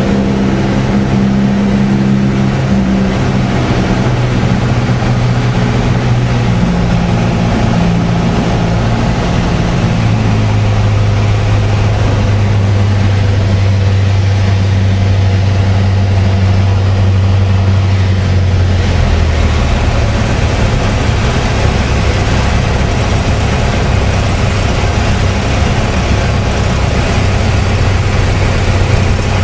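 Piper PA-28-161 Warrior's four-cylinder Lycoming engine and propeller running steadily, heard from inside the cabin. The engine tone steps down in pitch about ten seconds in and again near twenty seconds in.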